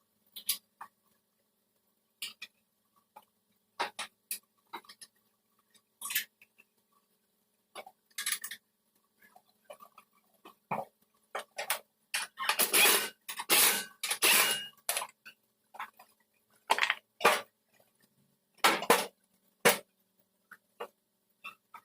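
Irregular short clicks and taps, with a denser run of louder scraping strokes about twelve seconds in.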